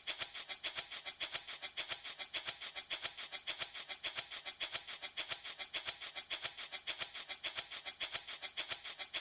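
Handmade baby rattle shaken back and forth in a steady, even rhythm, a continuous bright, hissy rattle of several strokes a second.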